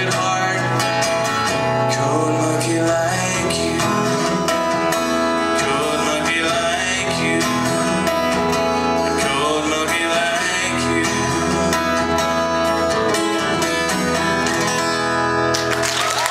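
Live guitar-led band playing the instrumental ending of a rock song, heard from the back of the room. About a second before the end the music stops and the crowd breaks into cheering and applause.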